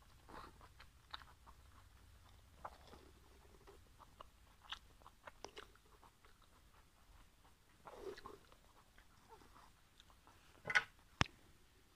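Close-up chewing of a steamed pork momo: soft, wet mouth clicks and smacks, irregular and faint, with two sharp louder clicks near the end.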